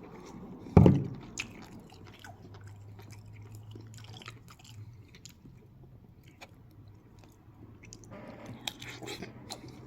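A person biting and chewing food close to the microphone, with small wet clicks throughout and one loud knock about a second in.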